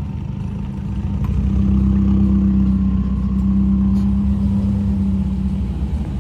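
Car engine running with a steady, low exhaust drone that swells louder about a second and a half in, then eases slightly.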